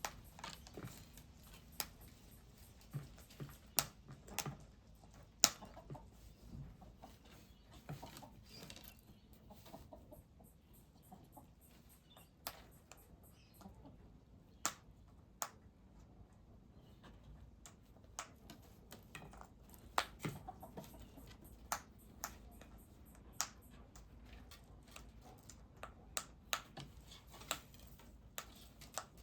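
Small birds at a backyard feeder and bird bath making short, sharp chips or pecking clicks, spaced irregularly about a second or two apart, over a low steady background.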